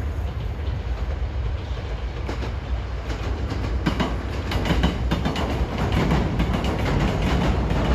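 Hankyu electric train running on the track: a steady low rumble with wheels clicking over rail joints, the clatter picking up from about three seconds in.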